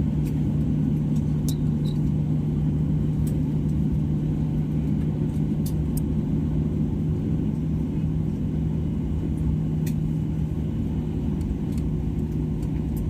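Steady airliner cabin noise: a continuous low rumble with a constant hum, with a few faint clicks over it.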